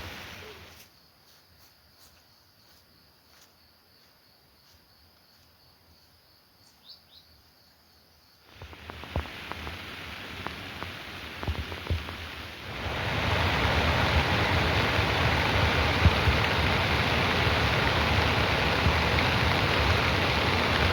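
Heavy rain. After about eight seconds of near quiet, with only a faint steady high tone and a couple of small chirps, light rain with scattered drips sets in. At about thirteen seconds it becomes a loud, steady downpour.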